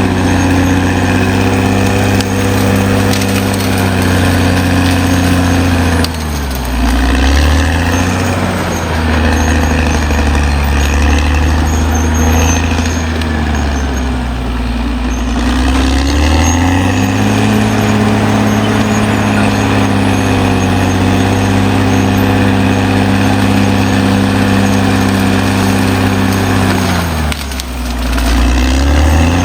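Caterpillar D6R XL bulldozer's diesel engine running hard, its note dropping low and then picking back up three times, about six seconds in, around fifteen seconds and near the end.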